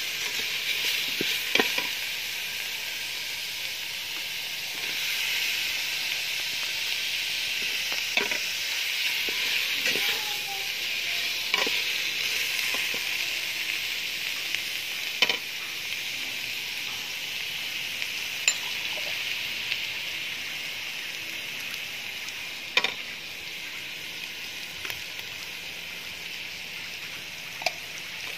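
Pork belly and fish pieces in spice paste sizzling steadily in hot oil in a metal pot. A metal ladle stirring them clinks and scrapes against the pot every few seconds.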